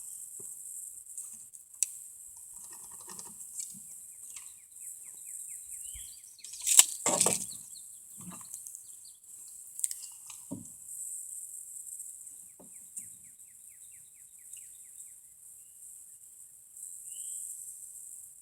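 Outdoor work sounds: scattered knocks and taps from handling lumber and a framing square while marking it out, the loudest a sharp knock about seven seconds in. Under them run a steady high hiss and faint runs of bird chirps.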